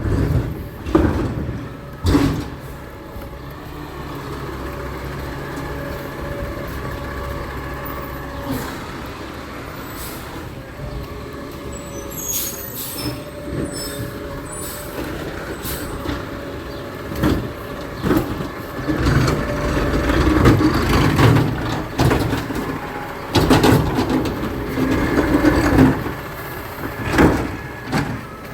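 Garbage truck at work: its engine runs steadily and grows louder in the second half, with several sharp clanks and bangs.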